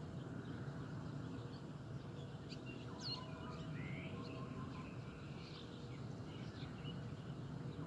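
Small birds chirping in scattered short calls over a steady low background rumble, with one sharper, higher call about three seconds in.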